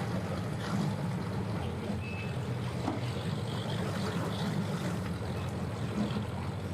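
Low, steady engine drone mixed with wind noise on the microphone, with one short high beep about two seconds in.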